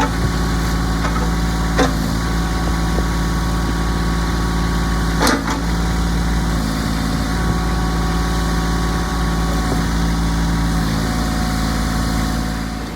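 2017 Kubota B26 tractor's three-cylinder diesel engine idling steadily, with a few brief knocks, the clearest about five seconds in.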